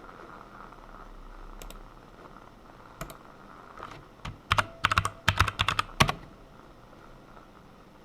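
Typing on a computer keyboard: a couple of single key presses, then a quick run of about a dozen keystrokes between about four and six seconds in.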